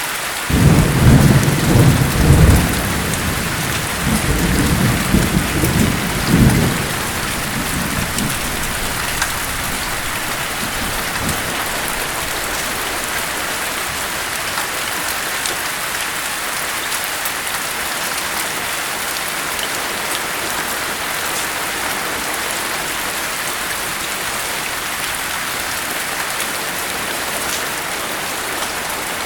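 Steady heavy rain with a long roll of thunder in the first seven seconds or so, rumbling in two surges before fading back into the rain.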